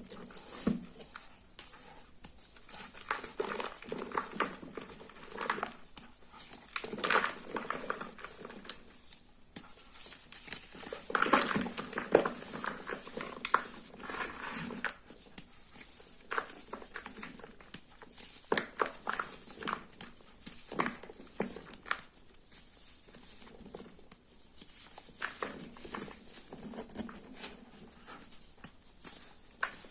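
Hands working blocks of sports chalk: irregular clusters of dry crackling, crunching and scraping, with the busiest stretches about a quarter and about two fifths of the way in, over a faint steady high hiss.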